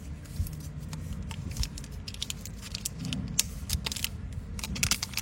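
Light clicks and rattles of small hard objects being handled, a string of short irregular taps over a low background rumble.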